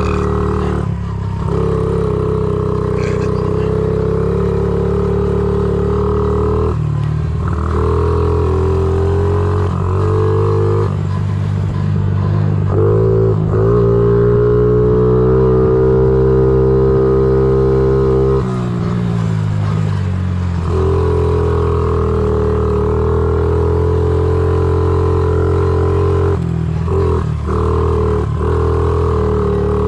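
Honda CRF50 pit bike's small single-cylinder four-stroke engine running as it is ridden, with brief drops in revs every few seconds as the throttle is eased or gears change. The revs climb about twelve seconds in, hold high for about five seconds, then fall back.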